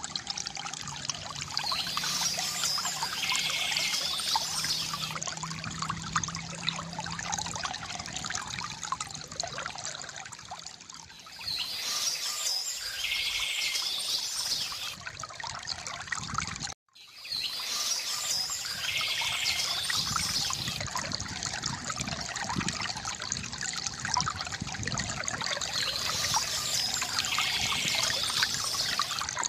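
A small stream trickling and splashing steadily, with a songbird singing in short bursts about four times. The whole sound cuts out for an instant a little past halfway.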